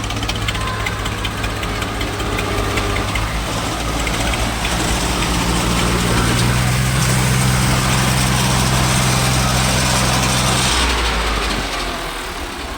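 Swaraj tractor diesel engines running hard under load in a tug-of-war. The engine note rises about five seconds in, holds steady, then drops away suddenly about eleven seconds in.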